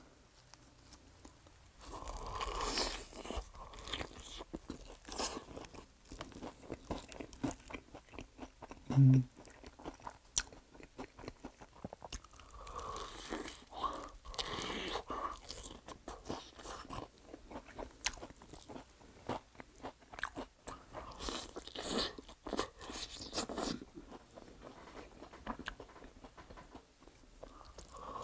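Close-up biting and chewing of sauced fried chicken, the crisp coating crunching in bursts of bites between wetter chewing. A brief low hum about nine seconds in is the loudest moment.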